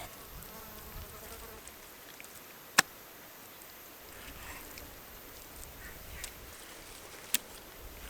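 Two sharp clicks over faint outdoor background: a loud one about three seconds in and a smaller one near the end.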